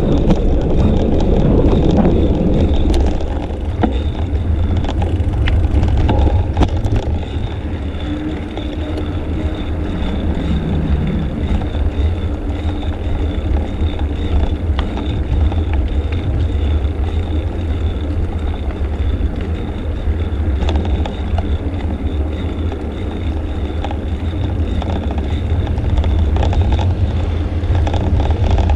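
Steady rumble of wind on a bicycle-mounted action camera's microphone while riding, with a thin, steady high whine above it.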